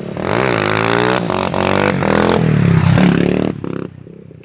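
Motorcycle engine revving: its pitch climbs sharply in the first second, holds, then drops back and fades out near the end.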